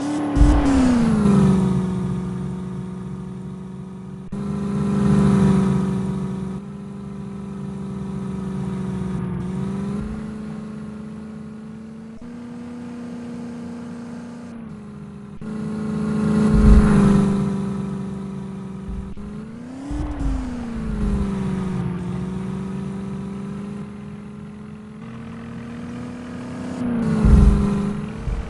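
HMT tractor's diesel engine running, its revs rising and falling again three times, with louder swells every several seconds.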